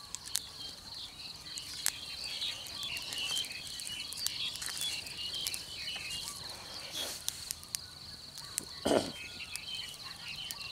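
Insects trilling steadily at a high pitch, with short chirps and scattered clicks over it, and a brief lower sound near the end.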